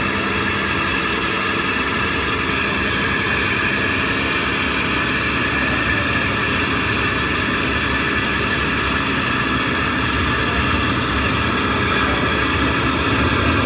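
Rolls-Royce Merlin piston aero engines running steadily at idle, a continuous even drone.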